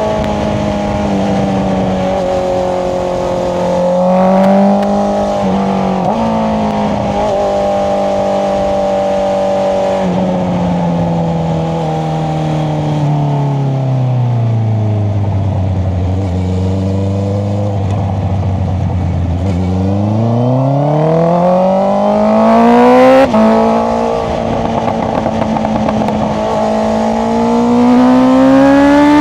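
Honda CBR650R's inline-four engine through an Akrapovic exhaust, on the move. The revs hold fairly steady at first, then fall away to a low steady drone around the middle. Then it accelerates hard: the pitch climbs to its loudest, drops at a quick upshift about three-quarters through, and climbs again.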